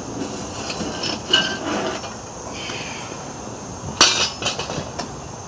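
Metal clinks and knocks as a freshly poured sand casting mold is opened, with one sharp, ringing strike about four seconds in.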